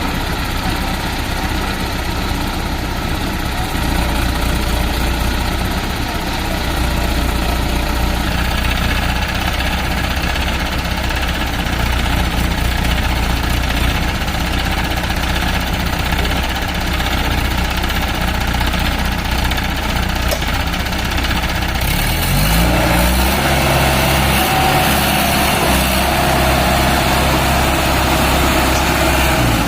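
JCB excavator's diesel engine running steadily at low speed. About three-quarters of the way through, the engine note rises and it runs louder and harder.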